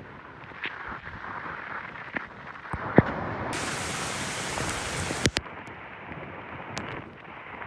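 Typhoon wind and rain: a steady rushing noise, with a few sharp knocks, the loudest about 3 seconds in and another just past 5 seconds.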